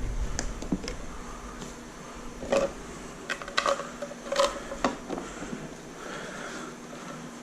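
A few short light clicks and knocks of parts being handled, bunched around the middle, over a faint steady hum.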